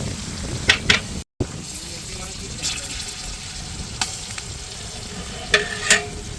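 Onions and spices frying in oil in a pot, a steady sizzle, with a few sharp clicks and two ringing metal clinks near the end from a spoon against the pot.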